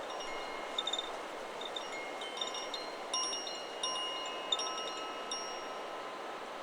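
Chakra Chimes 'Solar Plexus' wind chime swaying in the wind: a run of irregular strikes, each leaving several ringing tones that overlap, thinning out near the end. A steady hiss of wind runs underneath.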